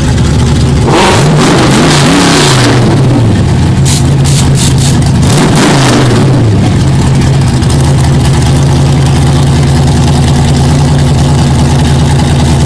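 Drag race car engines idling loud at the starting line, revved hard twice, about a second in and again about five seconds in, each time the pitch falling back to a steady idle.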